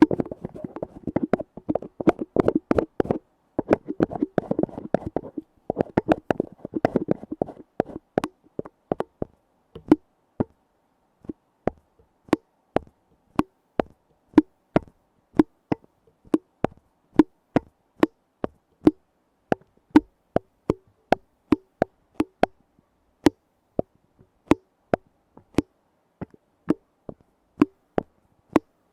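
Fingers tapping on a lid: fast, dense tapping for the first several seconds, then slower, evenly spaced taps at about two a second, each with a short hollow ring.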